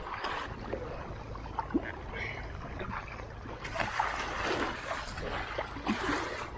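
Kayak paddle blades dipping and splashing through river water, with swells of splashing near the start, about four seconds in and about six seconds in.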